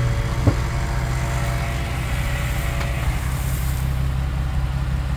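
Toyota 4Runner V6 engine running steadily with a low rumble, and a short knock about half a second in.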